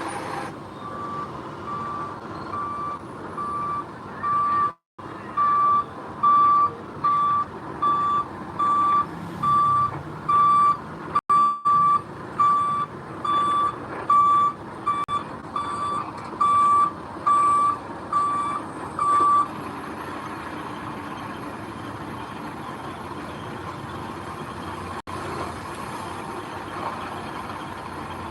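A construction vehicle's reverse alarm beeps steadily, about one and a half beeps a second, over its running diesel engine while it backs up. The beeping stops about two-thirds of the way through, and the engine keeps running.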